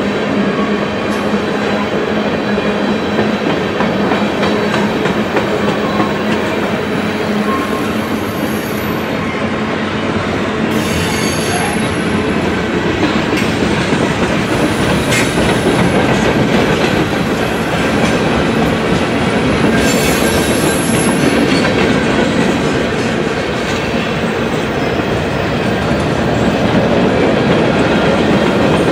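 Freight cars of a long freight train rolling past on steel wheels, a steady loud running noise of wheels on rail. Brief high-pitched wheel squeals come several times around the middle.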